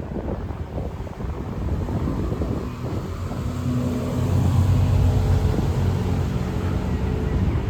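Street traffic: a motor vehicle's engine runs close by with a steady low hum. It grows louder from about halfway through and eases off near the end, over a constant traffic rumble.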